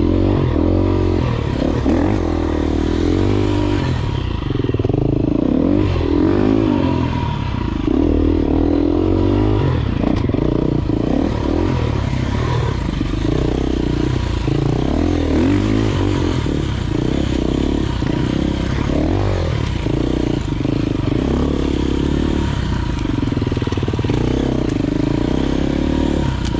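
Enduro dirt bike engine running under load off-road, its pitch rising and falling again and again as the throttle is opened and closed.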